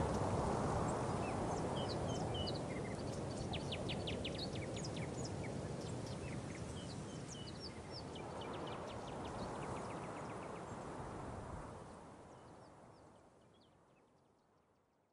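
Outdoor nature ambience: many short bird chirps over a steady rushing background. It swells slightly, then fades out over the last few seconds.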